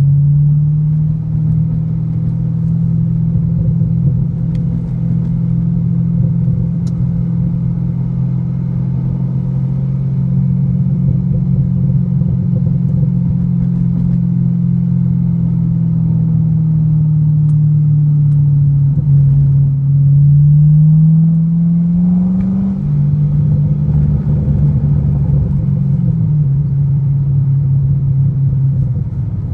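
2008 C6 Corvette's LS3 V8 through an SLP aftermarket exhaust, heard from inside the cabin under way, with road noise beneath. The engine note holds steady while cruising, sags slowly, then rises steeply under acceleration a little past twenty seconds, drops sharply near twenty-three seconds and settles back to a steady cruise.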